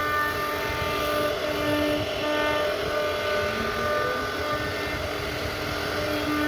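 CNC router carving wood: a steady spindle whine over a rough cutting noise, the whine swelling and fading as the bit works through the wood.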